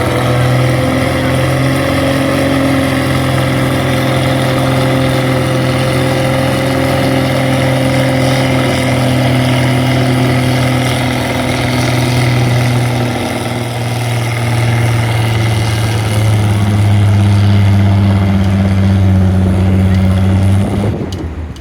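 1950 Oliver 88 tractor's six-cylinder engine running hard under load during a tractor pull, holding a nearly steady pitch. It gets a little louder in the last few seconds, then cuts off abruptly near the end.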